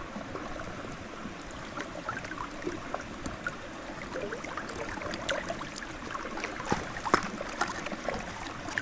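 Water trickling and gurgling steadily, with scattered small drips and ticks.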